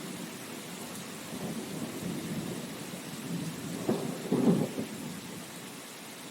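Steady rain falling, with a low rumbling that swells and fades, strongest about four seconds in.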